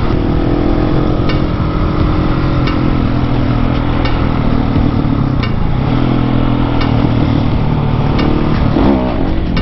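Husqvarna 701 supermoto's single-cylinder engine running at a steady cruise, heard from on the bike, its pitch dipping briefly about halfway through and picking up again. Faint light ticks come about every second and a half.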